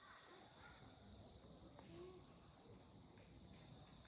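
Quiet night chorus of insects chirping in repeated pulsed trills, one very high and one lower, over the faint occasional crackle of a wood campfire.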